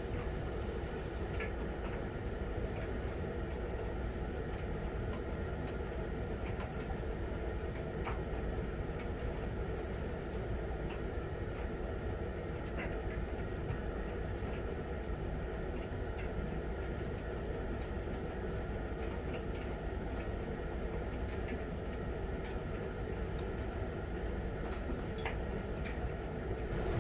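Miele Novotronic W921 front-loading washing machine running early in an easy-care 40°C wash, a steady low hum of motor and water with a few faint clicks.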